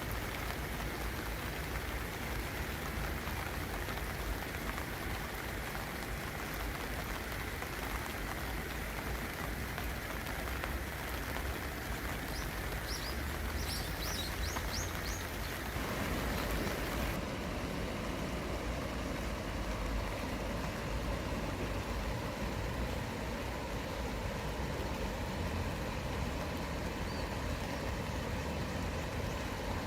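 Steady rain falling, an even hiss. A few short high chirps come about 13 seconds in, and about 16 seconds in the sound changes: the hiss thins out and a low steady rumble takes over.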